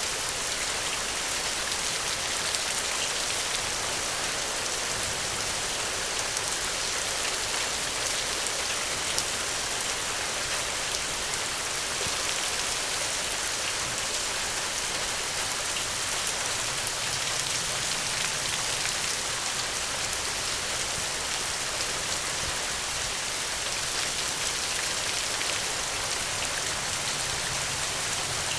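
Steady rain, a continuous patter of many drops striking a surface.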